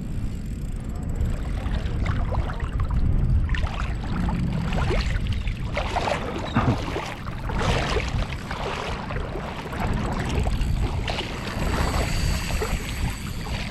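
Feet wading and splashing through shallow lagoon water in irregular sloshes that start a few seconds in, with a steady low rumble of wind on the microphone.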